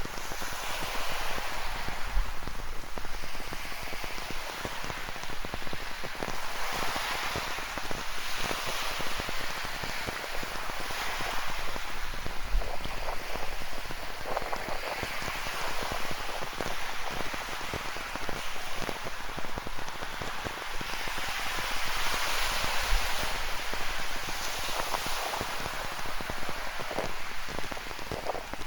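Ocean waves breaking and washing ashore, swelling and easing every few seconds, under a steady hiss of falling rain.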